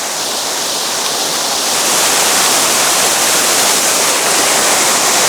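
Waterfall close at hand: a loud, steady rush of falling water that swells over the first two seconds and then holds.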